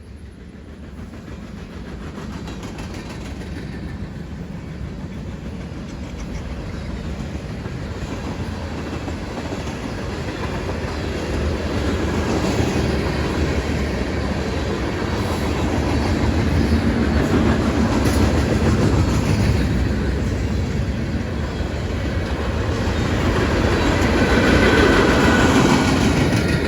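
Diesel-hauled freight train approaching and passing, its locomotives and wheels on the rails growing steadily louder as it nears.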